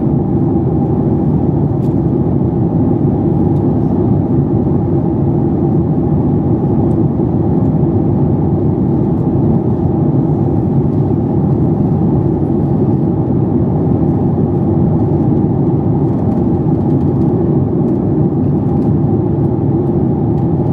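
Steady cabin drone of a Boeing 737 MAX 8 airliner: engine and airflow noise heard inside the passenger cabin, even and unchanging.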